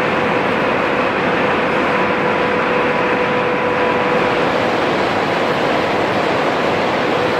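Steady, loud industrial noise with a constant mid-pitched hum running through it.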